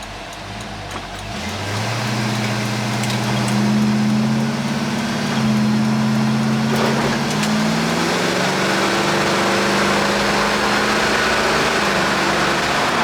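Car engine revving up as the car pulls away a second or so in, then running at a steady drone with a couple of shifts in pitch as it gets under way.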